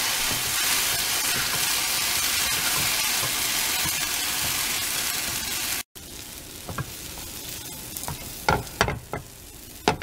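Mung bean and green onion filling sizzling in oil in a nonstick frying pan as it is stir-fried with a wooden spatula. About six seconds in the sizzle cuts off abruptly, and after that it is quieter, with a few sharp scrapes and knocks of the spatula against the pan.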